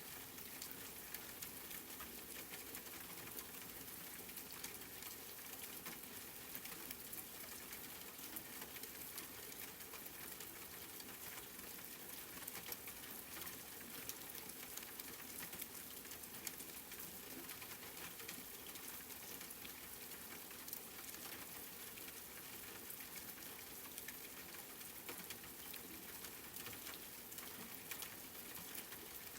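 Steady rain: an even hiss with many small drops ticking and pattering through it.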